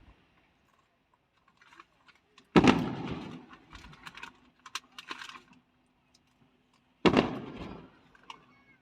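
Aerial fireworks shells bursting: two loud booms about four and a half seconds apart, each trailing off in a rolling echo, with a few sharp pops and crackles between them.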